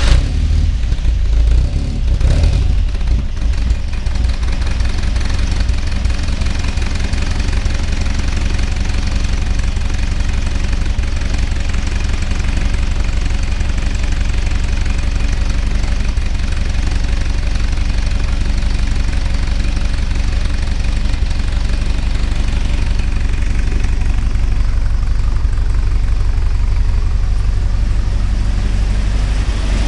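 Engine of a 1963 Triumph TR6 idling steadily just after a cold start, with a brief unsteadiness about two seconds in before it settles.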